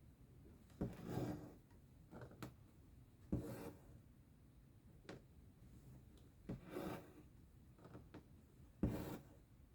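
Cross-stitch thread being pulled through fabric: four short rasping pulls a couple of seconds apart, with small clicks of the needle between them.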